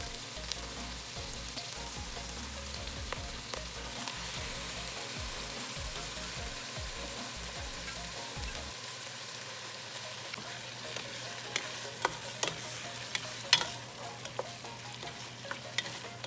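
Marinated chicken livers and gizzards sizzling as they fry in hot oil with onion and garlic. In the second half a cooking utensil knocks and scrapes against the pan a few times while stirring, the loudest knock near the end.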